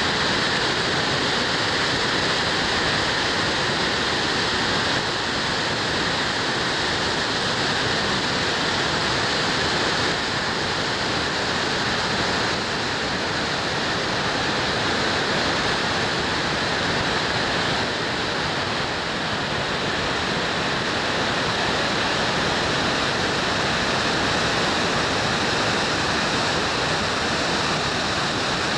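Fast-flowing river rushing, a steady loud wash of water noise with no breaks.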